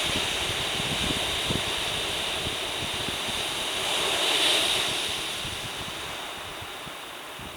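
Heavy Pacific surf, the high storm swell left behind by a passing typhoon, breaking and washing in. One wave surges louder about halfway through, then the wash fades back.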